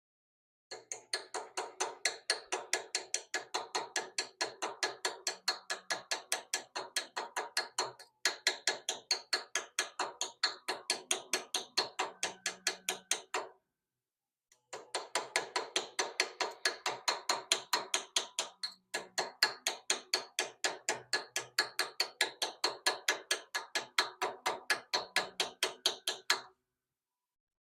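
A small hammer taps rapidly and evenly, about four strikes a second, cutting the shallow grooves for copper inlays into a soft wrought-iron cross-guard. The tapping stops briefly three times, the longest pause about halfway through.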